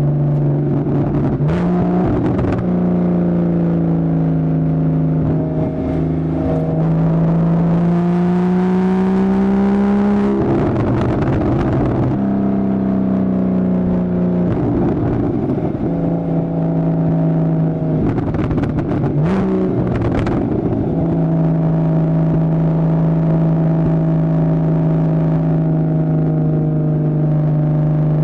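2015 Porsche Boxster's 2.7-litre flat-six heard through a Fabspeed Maxflo aftermarket exhaust while driving: a steady engine note that climbs in pitch about eight seconds in and settles again, broken several times by brief rough, noisy stretches.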